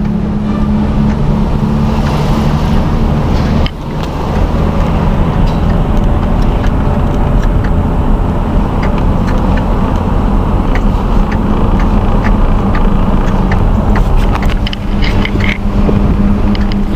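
A car driving along: steady engine hum and road noise, with a brief dip in level a little under four seconds in.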